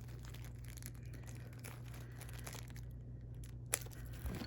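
Faint rustling and handling of a plastic model airliner, with one sharp click about three-quarters of the way through, over a steady low hum.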